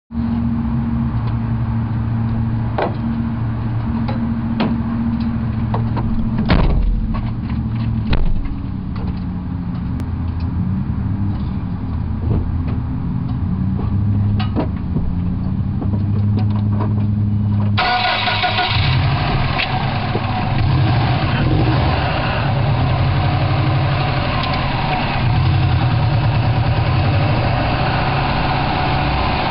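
Subaru WRX's turbocharged flat-four engine, fitted with an IHI VF39 turbo, idling steadily, heard up close in the engine bay. There are occasional light clicks. About 18 seconds in, the sound abruptly turns fuller and harsher.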